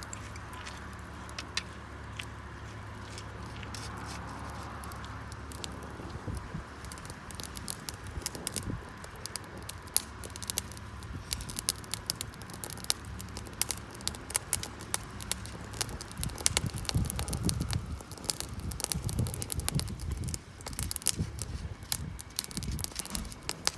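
Wood campfire crackling, with sharp irregular pops and snaps that come thicker from about six seconds in. A steady low hum sits underneath for the first six seconds, then stops.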